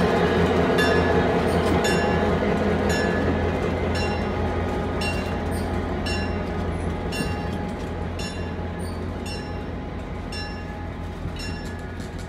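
Passenger train rolling slowly past: the steady hum of the diesel locomotive fades gradually as it moves off, while the cars' wheels click over rail joints about once a second.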